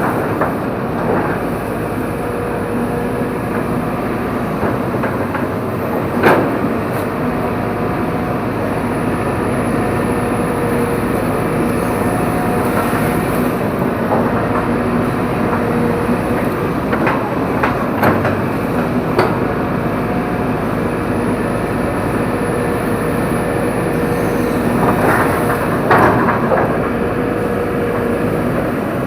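Tracked excavator running steadily, its engine a continuous drone, with a few sharp cracks and knocks. The loudest come about six seconds in and again near the end.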